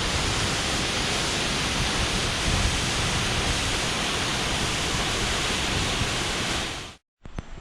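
Powerful waterfall rushing steadily, a dense, even roar of falling water and spray. It cuts off abruptly about seven seconds in, and a much quieter outdoor ambience follows.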